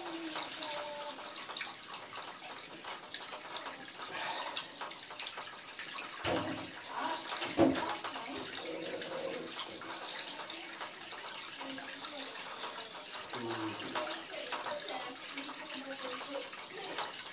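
Water running and spraying from an open bath tap with its headgear removed, a rag stuffed in to stem the flow. Two sharp knocks about six and seven and a half seconds in.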